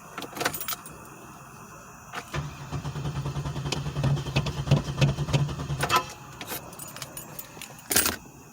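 A 2007 Pontiac Grand Prix GT's 3.8-litre V6 is cranked on the starter for about three and a half seconds, with an even pulsing churn, and does not fire: a crank-no-start after the engine has stalled. A few clicks come before it, and a sharp knock follows near the end.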